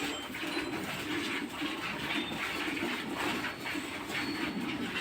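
Pigeons or doves cooing, a low rounded call repeated over and over.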